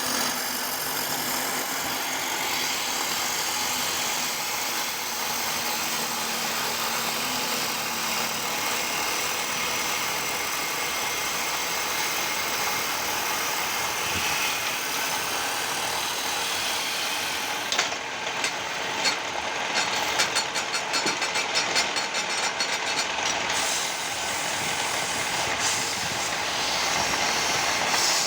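Wood lathe running, with the steady hiss of a cutter turning wood. About two-thirds of the way in, a fast rattle of clicks comes in for about five seconds, then the steady running sound returns.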